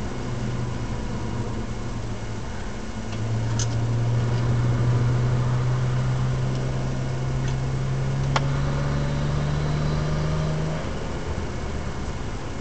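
BMW 135i's N54 twin-turbo straight-six pulling along with road noise: the engine drone grows louder about three seconds in and climbs slowly in pitch, then falls back near the end. A single sharp click about eight seconds in.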